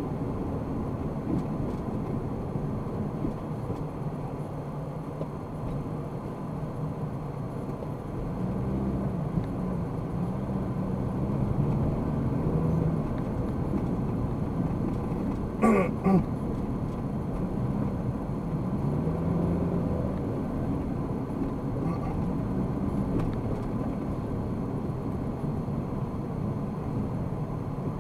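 A car driving through city traffic, recorded by its dashcam: a steady road and engine rumble, with the engine pitch rising and falling as it speeds up and slows. About midway there is a brief, sharp double sound, the loudest moment.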